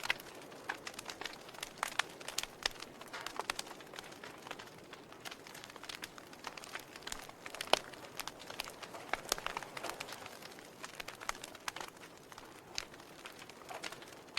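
Wood logs burning in a fireplace, crackling with irregular sharp pops over a soft hiss. One pop about eight seconds in is louder than the rest.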